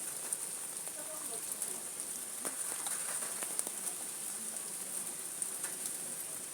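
Steady rain falling, a constant hiss with many small drops tapping on nearby surfaces.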